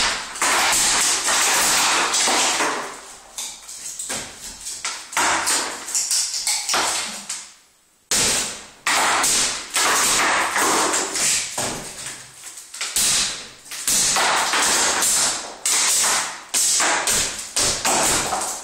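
A ceiling being demolished: repeated crashing and clattering as pieces of ceiling are broken and fall, in loud bursts with short lulls between them and a brief quiet gap about eight seconds in.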